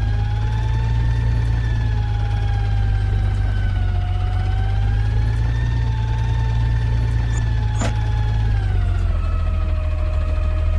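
Garbage truck engine running with a steady low rumble under a whine that wavers gently in pitch. Near the end the engine note and the whine both drop. There is a single sharp click about eight seconds in.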